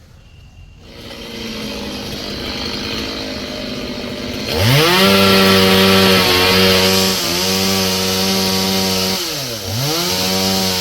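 Two-stroke chainsaw running at a low idle, then revved up sharply about four and a half seconds in and held at full throttle, with a quick let-off and re-rev near the end.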